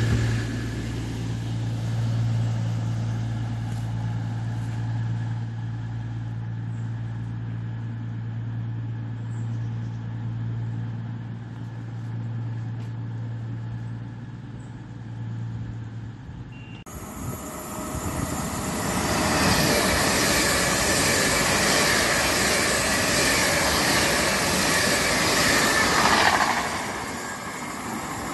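Diesel engines of a CrossCountry Voyager multiple unit droning steadily at the platform. Then, after an abrupt change, an LNER Azuma high-speed train passes through at speed with a loud rush of wheels and air that fades near the end.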